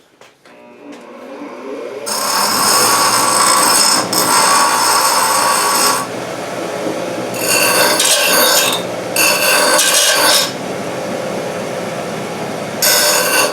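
Electric grinder spinning up, then grinding on a bent metal exhaust hanger bracket in four bursts, with the grinder running free between them.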